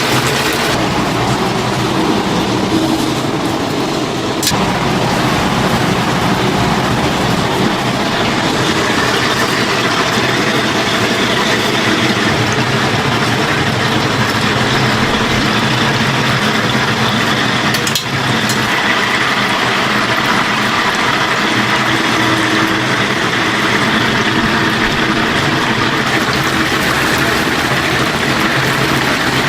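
Chicken deep-frying in a vat of hot oil, a steady loud sizzle over a constant machine hum.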